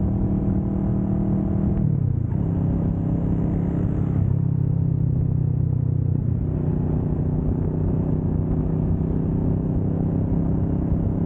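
Kawasaki Vulcan S 650's parallel-twin engine running steadily while riding at speed. About two seconds in, its pitch drops and then holds steady at the lower note.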